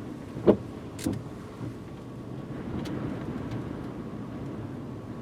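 Steady low rumble of a car heard from inside the cabin, with a loud short knock about half a second in and a sharper click just after a second.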